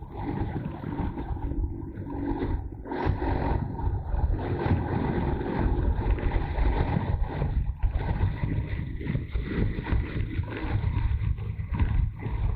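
Motorcycle on the move: engine running steadily under a rough, gusty rumble of wind on the camera microphone.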